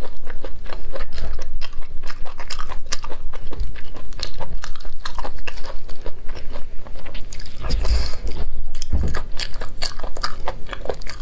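Crunchy chewing and biting of braised pig's ear, its cartilage giving many small crackling crunches, with two duller thumps about eight and nine seconds in.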